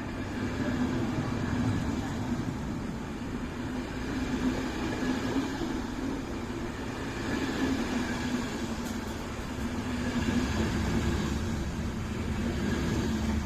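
EuroCity passenger train pulling out of the station, with a steady rumble of wheels on the rails that swells and eases as the coaches roll by.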